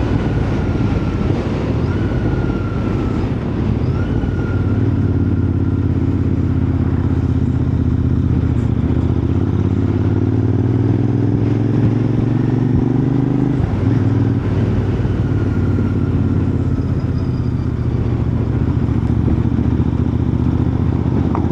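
Motorcycle engine running steadily under way, its note slowly rising, with a brief change in pitch a little over halfway through.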